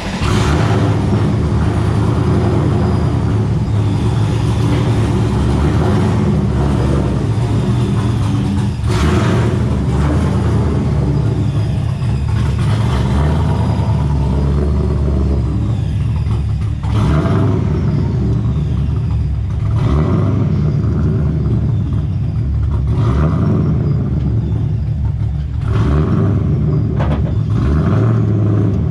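Supercharged Nissan 240SX engine running loud as the car drives, the revs rising and falling a few times with brief dips in between.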